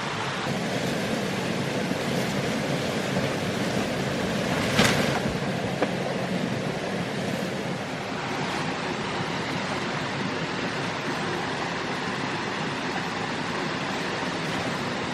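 Steady rushing noise with no tones in it, with one brief louder swish about five seconds in.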